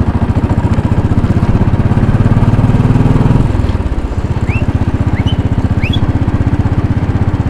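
2010 Royal Enfield Bullet 500's single-cylinder engine running under way, with evenly spaced exhaust beats. It grows louder partway through, then drops back about three and a half seconds in.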